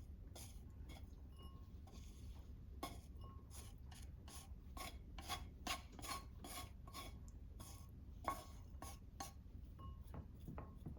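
Faint scraping in quick repeated strokes, about two a second, from a kitchen utensil working food during meal prep.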